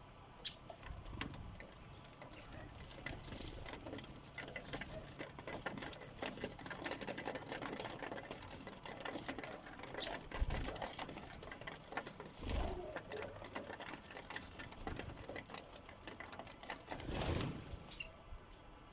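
Sparrows pecking at a bird feeder: a long run of quick, irregular taps of beaks on the feeder. Three louder rustling bursts come about halfway, about two-thirds in and near the end.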